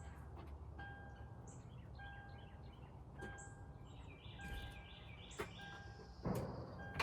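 Outdoor ambience: birds chirping in short high twitters over a low steady hum, with a faint electronic beep repeating about once every second.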